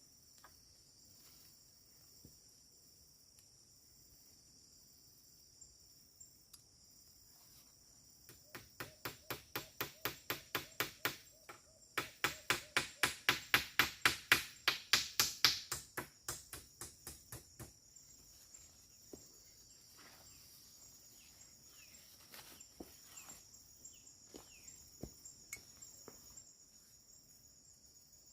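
Forest insect chorus, a steady high-pitched buzz throughout. Over it, from about eight seconds in, comes a rhythmic train of pulses, about three or four a second, that swells to a loud peak and fades away over some ten seconds.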